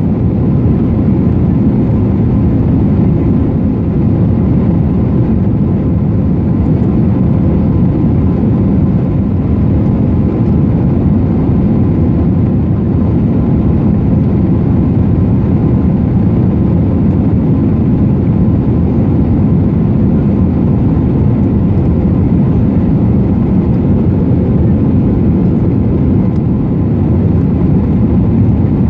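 Steady cabin noise inside an Airbus A320-214 in flight after takeoff: its CFM56 engines and the airflow make an even, unbroken rumble, with a faint steady hum running under it.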